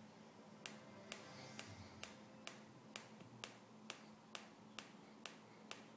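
iPhone 5s screen clicking: a dozen faint, sharp clicks at an even pace of about two a second. It is the faulty noise from the display that is being recorded for a warranty claim.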